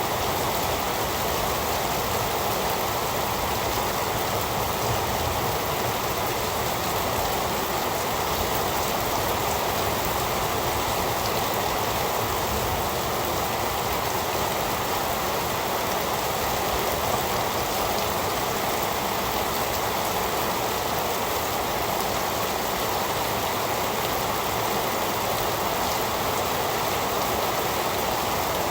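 Heavy rain falling, a steady, even hiss of drops.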